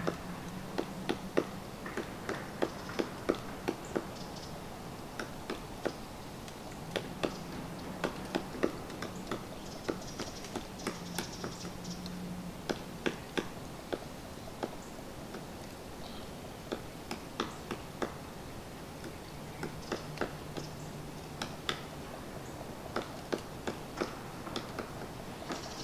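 Red-headed woodpecker pecking and chipping at dead wood: irregular sharp taps, a few a second, in uneven clusters.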